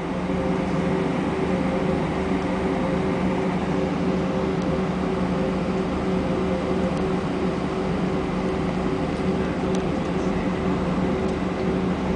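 Steady drone inside the cabin of an Airbus A320, a constant hum with a low tone and a couple of higher ones over a rushing background.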